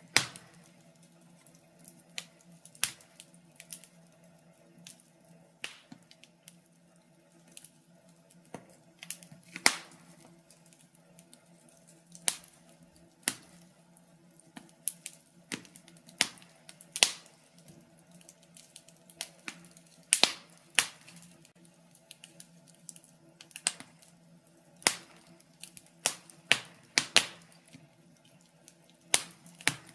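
Wood fire in a fireplace crackling, with irregular sharp pops and snaps, some in quick clusters, over a faint steady low hum.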